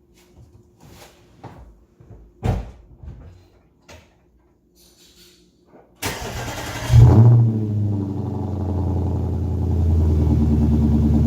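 A few faint clicks and knocks, then about six seconds in the starter cranks and the 2011 Audi S5's 4.2-litre V8 fires with a loud flare of revs on a cold start. It then settles into a steady fast idle through AWE Tuning resonated downpipes and a Track Edition exhaust.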